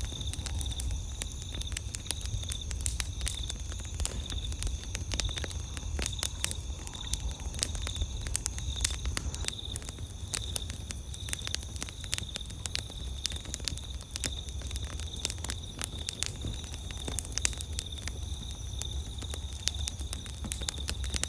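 Campfire crackling: many sharp, irregular pops and snaps over a low rumble, with a steady high-pitched trilling in the background.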